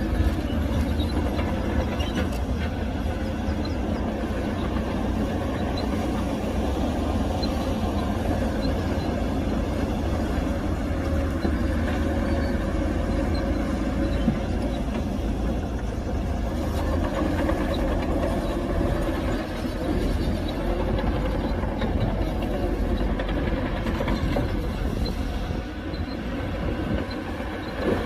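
Heavy diesel earthmoving machinery running steadily under load, with a deep engine drone and a few brief metal knocks.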